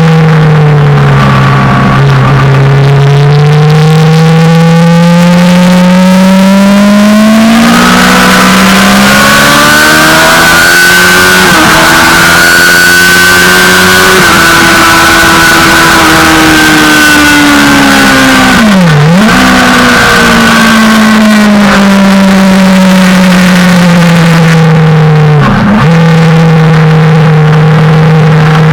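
Suzuki GSX-R600 inline-four sportbike engine at track pace, its pitch sliding down and climbing again as the revs fall and rise, with two sharp momentary drops in pitch, one partway through and one near the end. A loud rushing hiss runs over it throughout.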